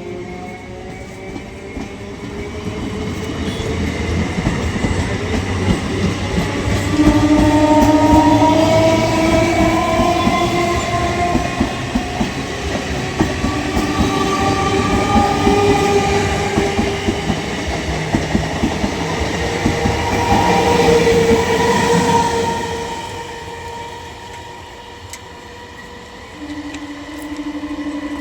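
Electric local train running through a station: wheels clattering on the rails under a whine that slowly shifts in pitch. A train horn sounds about seven seconds in and again near the end.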